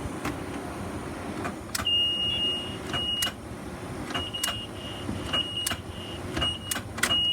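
Sharp ticks with each turn of the key on a 2006 Ford E-450 bus that will not crank, a tick that sounds like it comes from the relay box. From about two seconds in, a high warning chime sounds on and off between the ticks.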